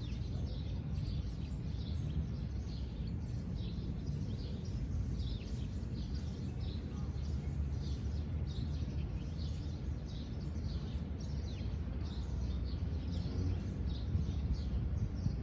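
Many small birds chirping in short high calls over a steady low rustle of gentle wind on the microphone.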